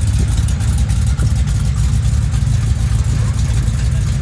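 Car engine running steadily with a low, choppy rumble.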